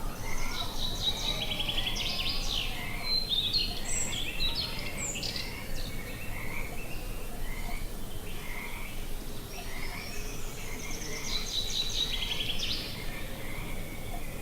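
A songbird singing bright, rapid trilled phrases, one run in the first few seconds and another a little past the middle, with scattered chirps between, over a steady outdoor noise bed.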